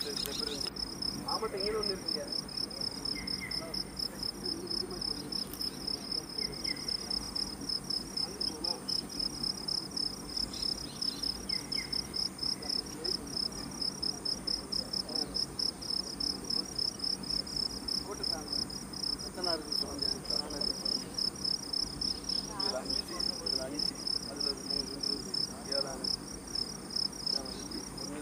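Forest insects shrilling steadily, one high chirp pulsing about three times a second over a continuous higher hiss.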